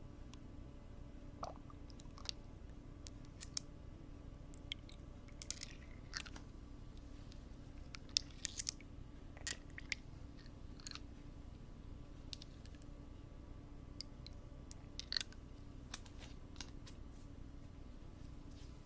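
Close-up ASMR ear-cleaning sounds: irregular scratching, crackling and small clicks of tools worked against a microphone ear, over a steady low hum.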